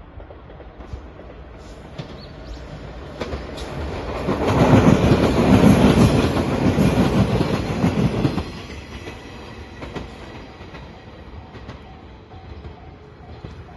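Train passing: wheels clattering over the rail joints, loudest for about four seconds from about four seconds in, then falling off sharply to a lower rumble.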